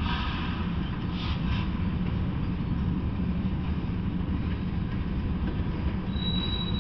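Freight train cars rolling past on the rails: a steady low rumble of wheels on track, with brief higher screeching near the start and again about a second in. A thin, steady high tone comes in near the end.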